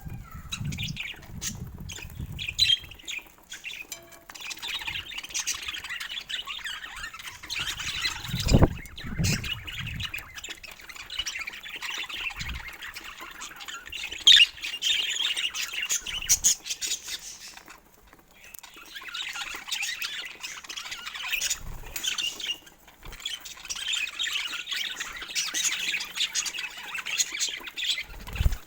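Budgerigars chattering and squawking in a busy, near-continuous warble with a brief lull partway through, broken by a few low thumps.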